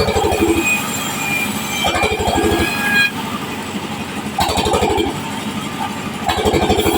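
Power saw cutting waru timber into small strips. The motor runs steadily, and the sound swells into a louder cutting stretch about every two seconds as each piece is fed through the blade.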